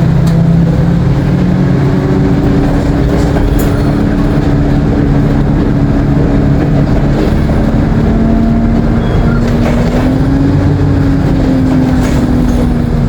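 ADL Enviro 200 single-deck bus under way: the diesel engine runs with turbo whine and its Allison automatic gearbox, its tones shifting in pitch. From about nine seconds in, one tone rises and then eases back down.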